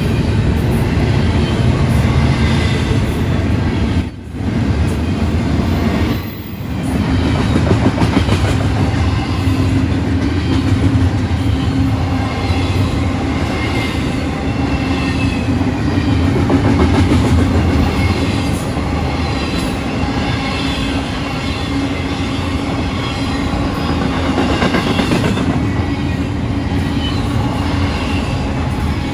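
Freight train passing at speed: steel wheels running on the rails in a steady loud rumble with a constant hum, the sound dropping away briefly twice about four and six seconds in.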